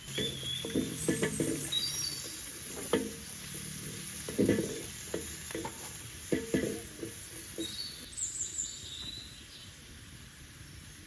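A utensil stirring and knocking in a cooking pot: irregular knocks and scrapes that thin out after about seven seconds.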